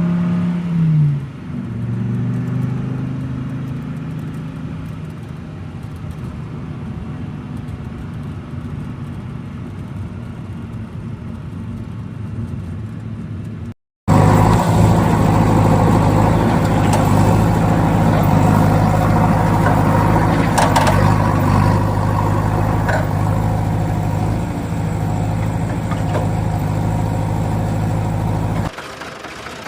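Vehicle engine running steadily, dropping in pitch about a second in. About halfway through it cuts out for a moment, then returns as a louder, deeper steady engine sound until just before the end.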